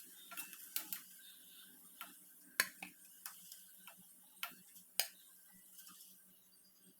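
Metal slotted spoon clicking and tapping against the frying pan while fried cheese balls are lifted out of hot oil, with a faint hiss from the oil. The clicks are irregular, the loudest about two and a half seconds and five seconds in.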